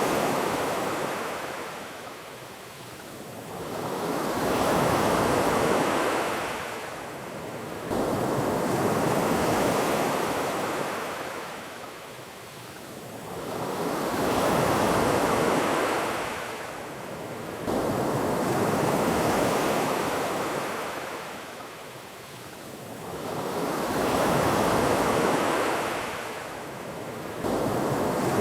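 Ocean waves washing onto a beach, each swell rising and falling back about every five seconds.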